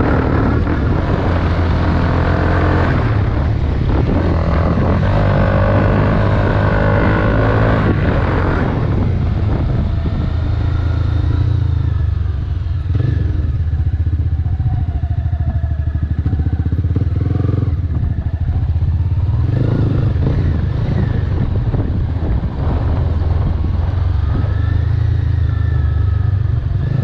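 Honda CBR250R's single-cylinder engine running loud through a Delkevic exhaust with the dB killer removed. It is revved harder for the first eight seconds or so, then settles to a lower, steadier note.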